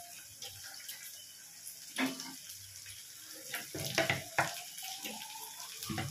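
Hot oil sizzling in a kadai as chopped green onion stalks are tipped in, with a few sharp knocks about two, four and six seconds in.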